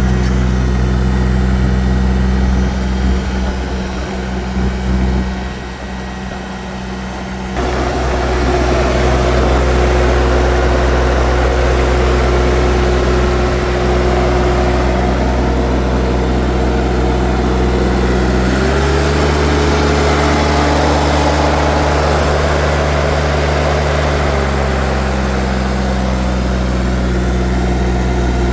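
New Holland tractor engine running steadily, growing fuller and noisier about a quarter of the way in. It is revved up to a higher pitch for about six seconds past the middle, then drops back to its earlier speed.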